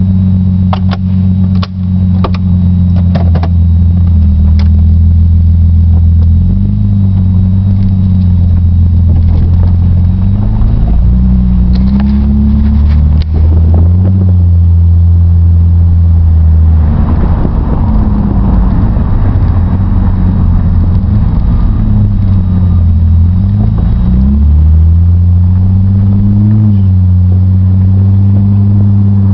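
Nissan Maxima's 3.5 L V6 heard from inside the cabin through a new muffler and aftermarket exhaust. It is accelerating through the gears, rising in pitch and dropping back at each shift several times. Under load it has a deep exhaust drone, which the owner finds unwelcome. A few sharp clicks come in the first few seconds.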